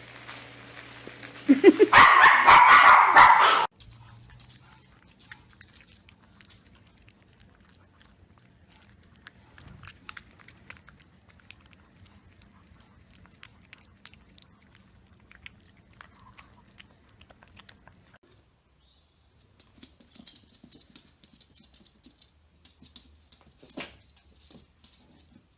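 A dog barks loudly for about two seconds near the start, cut off abruptly. After that there are only faint clicks and small handling noises.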